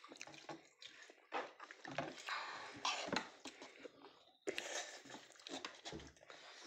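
Eating sounds of dhido, a thick Nepali millet or buckwheat porridge, being eaten by hand and chewed, in irregular bursts of mouth noise with a few sharper sounds.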